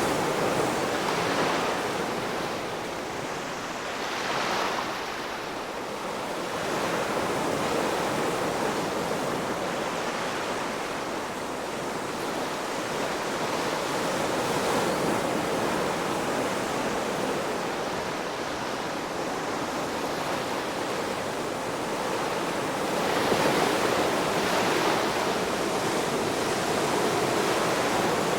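Ocean waves breaking and washing on the shore in a steady rushing surf that swells and eases over several seconds, with fuller breaks about four seconds in and again near the end.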